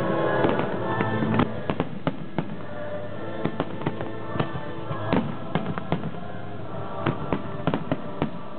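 Fireworks finale: aerial shells and low effects going off in quick, irregular succession, a string of sharp bangs and crackles, over show music playing through loudspeakers.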